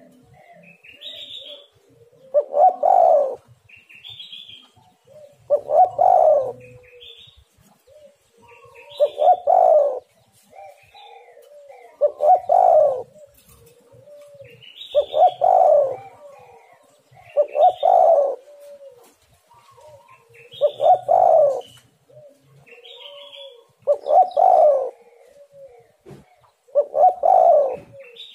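Spotted dove (tekukur) cooing its song over and over, one loud phrase about every three seconds, nine in all, with softer coos between. Each phrase is led by a few short high chirping notes.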